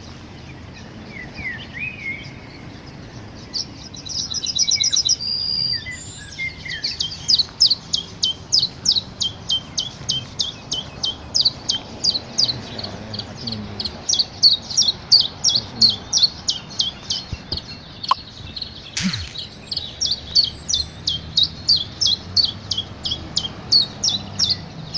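Small nesting birds chirping: a long run of short, high, evenly repeated chirps, about three a second, starting about seven seconds in, with a brief buzzy trill a few seconds before.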